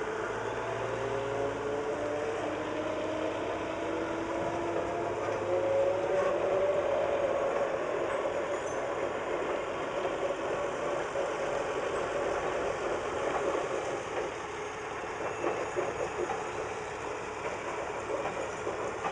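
Small diesel tourist train rolling slowly across a steel trestle bridge: the locomotive's engine running under the steady sound of wheels on the rails. In the first several seconds a few drawn-out tones slide lower in pitch.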